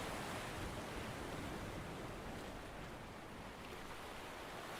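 Steady, even background noise, a constant rush with no distinct sounds standing out.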